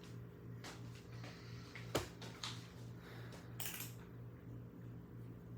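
1966 Admiral Royal 106 window air conditioner running with a steady low hum. Over it come handling sounds: a sharp knock about two seconds in, a lighter click just after, and a brief scraping rustle a little before four seconds.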